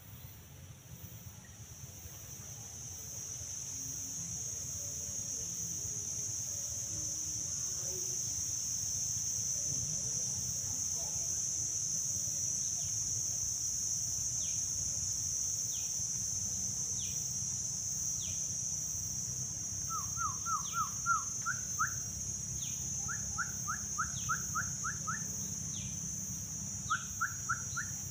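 A steady, high-pitched insect drone throughout. From about halfway, a bird gives thin falling notes about once a second. Near the end it adds three quick runs of five to seven short rising notes.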